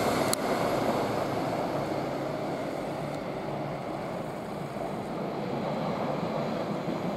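Steady rumble of electric trains running on the line: a departing South Western Railway Class 450 electric unit fading away, then Class 444 electric unit 444 030 approaching and growing slightly louder towards the end.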